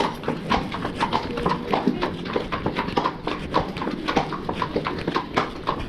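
Shod horses' hooves clip-clopping on a hard surface, a quick, uneven run of sharp clicks from more than one horse.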